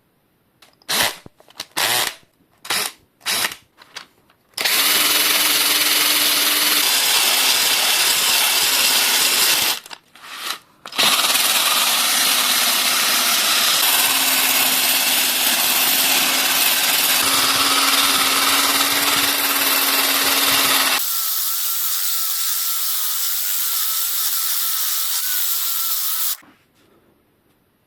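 Electric power tool scrubbing rust off a bicycle chain: five short blips, then long steady runs with a brief stop near the middle. Over the last few seconds it runs quieter and thinner, with a higher whine, before it stops.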